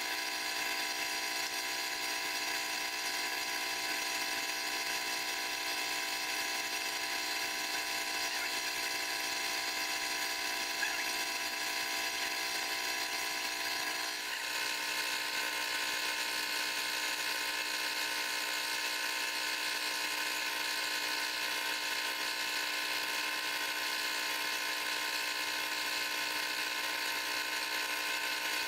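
Steady whine of a small electric motor running without a break, its tones shifting slightly about halfway through.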